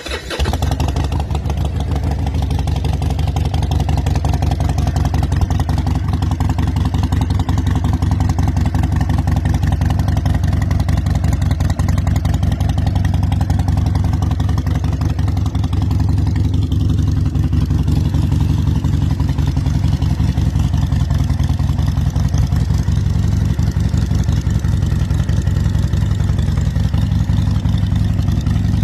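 Harley-Davidson Seventy-Two's 1200 cc air-cooled Evolution V-twin running with a loud, rapid, lumpy exhaust beat.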